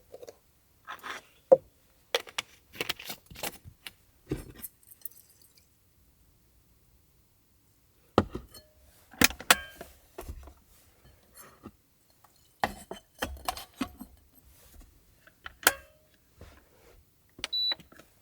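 Clinks, taps and knocks of small hard objects being handled, coming in short clusters with a quiet gap of about two seconds near the middle.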